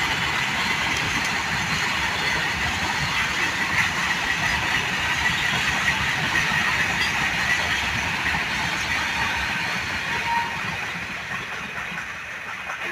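A train running past on the track: the steady noise of wheels on rails, getting quieter near the end.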